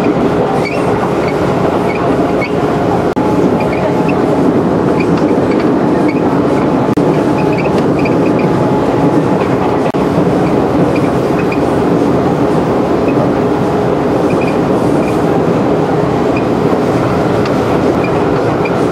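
Running noise of a JR 211 series electric train at speed, heard from inside the passenger car: a continuous rumble of wheels on rail with a steady hum and scattered light clicks.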